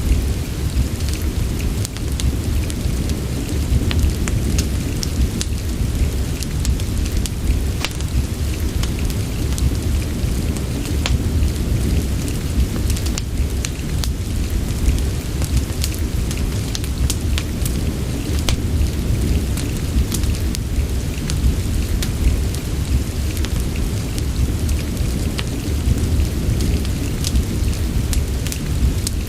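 Steady rain mixed with a crackling wood fire: a continuous deep rumble underneath and scattered sharp crackles and pops throughout.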